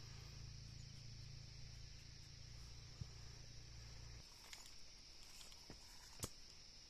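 Quiet background: a steady high hiss with a low hum that cuts off about four seconds in, and a few light clicks or taps, the sharpest near the end.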